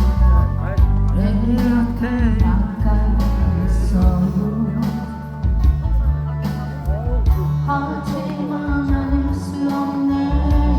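A song being sung with instrumental accompaniment: a sustained vocal melody over steady bass and backing instruments.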